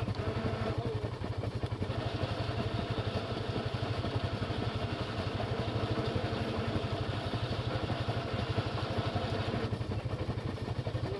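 Off-road vehicle engine running steadily, working a little harder from about a second in until near the end.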